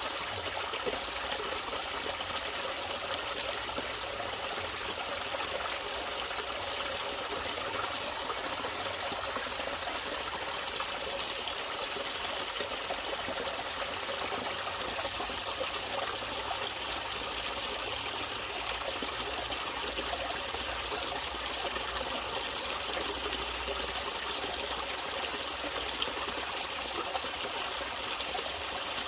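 Natural running water trickling and flowing steadily, without a break.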